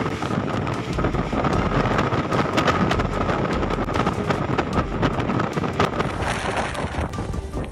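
Violent tornado wind blowing hard against the microphone, with many irregular sharp crackles and knocks, likely debris flying and striking things.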